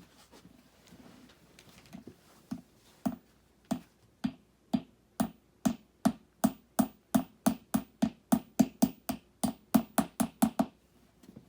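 Repeated hammer blows on a flat-pack TV stand during assembly, about two to three sharp knocks a second with a short ring. They begin slowly, settle into a steady rhythm, and stop shortly before the end.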